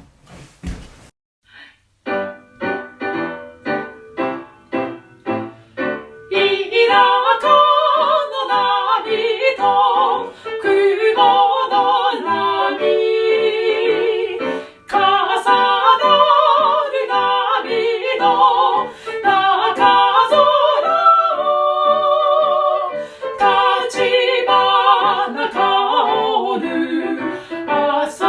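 Music: short repeated instrumental notes about two a second, then from about six seconds in a woman singing in an operatic style with wide vibrato over the accompaniment.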